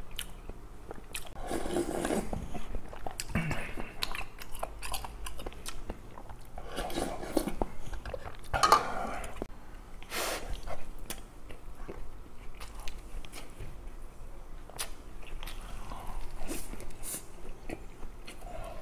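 Close-miked eating sounds: chewing and biting with some crunching, mixed with sharp clicks of a spoon and chopsticks against dishes.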